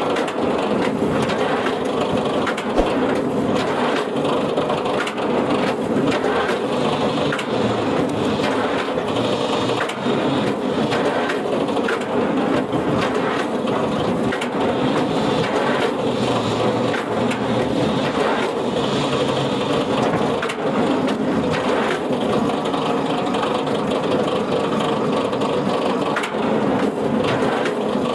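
Wood-processing machinery running steadily under load, with wood crunching and cracking throughout.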